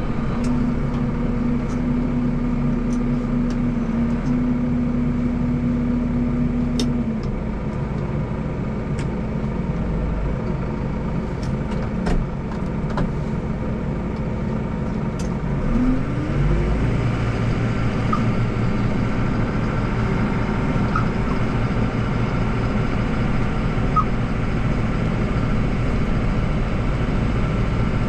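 Deutz tractor's diesel engine running steadily while driving. About sixteen seconds in, its pitch rises as the engine speeds up and holds at the higher speed.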